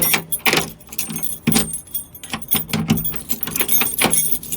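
A bunch of keys on a ring jangling as a key is turned back and forth in a newly fitted door lock, locking and unlocking it, with many irregular sharp clicks.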